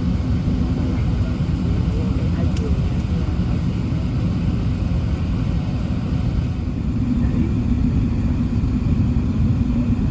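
Steady low rumble of an Airbus A380 in flight, engine and airflow noise heard from inside the passenger cabin.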